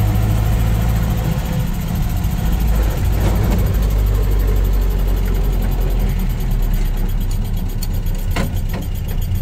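Land Rover Series II engine and drivetrain running steadily as the vehicle is driven, heard from inside the cab, with a sharp click about eight and a half seconds in.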